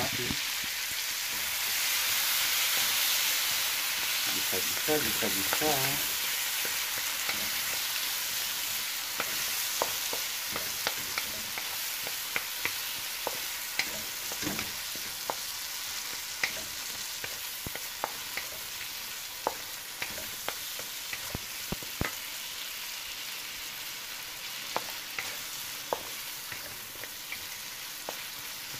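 Chopped onion and tomato sizzling in hot oil in a wok, with a wooden spatula ticking and scraping against the pan as they are stirred. The sizzle is loudest in the first few seconds and slowly dies down.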